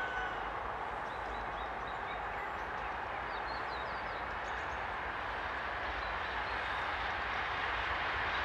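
A train approaching in the distance: a steady rushing noise that grows slowly louder near the end, with a few faint bird chirps.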